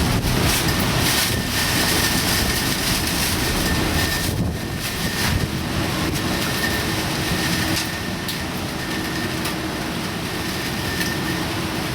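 Typhoon wind and rain: a steady rush of noise with a heavy low rumble and frequent gust-like surges, with a faint steady high tone running through it.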